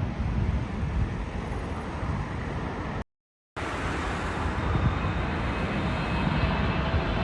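Jet airliner engine noise, a steady rumble with a faint whine that builds slightly after a brief dead silence about three seconds in.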